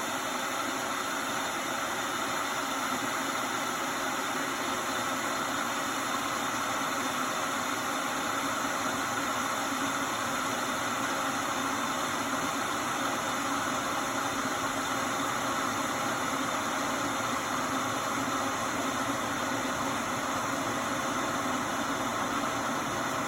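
Hamilton Beach 1-litre, 1500-watt glass electric kettle heating water close to the boil: a steady, even rushing noise as the water steams and bubbles.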